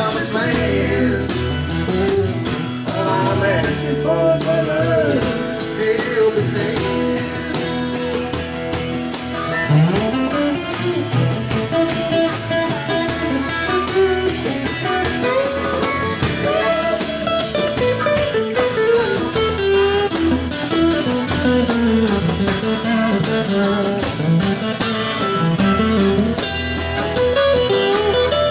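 Live Americana band playing an instrumental break, guitars carrying a bending lead line over the steady backing.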